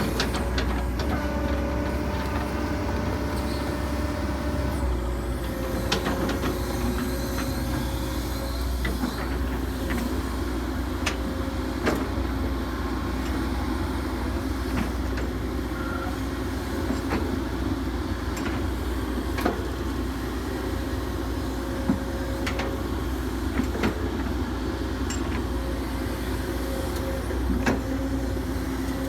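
Hitachi 135US hydraulic excavator working: the diesel engine runs steadily under a constant hydraulic whine, with sharp clanks every few seconds.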